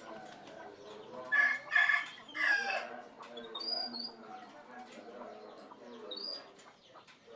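A rooster crowing once, loud and high, in two drawn-out parts about a second in, followed by a few short, high bird chirps.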